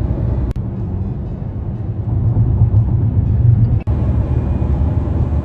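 Car cabin noise while driving at expressway speed: a steady low rumble of tyres and engine, broken twice by brief sudden dropouts, about half a second in and just before four seconds.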